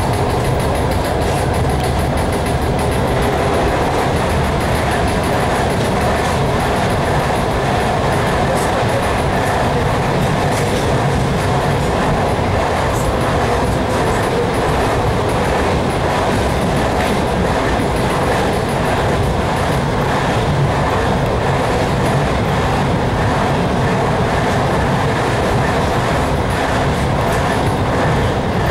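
Suburban train running, heard from inside the carriage: a steady rumble and rail noise with wheels clicking over rail joints. Another train passes close alongside on the adjacent track in the second half.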